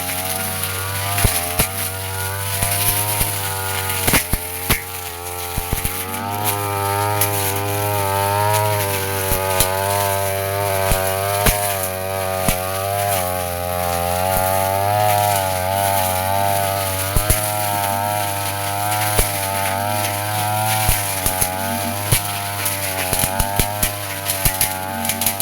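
Brush cutter engine running at high speed, its pitch wavering up and down as it works, with frequent sharp ticks from the spinning blade striking grass and stems.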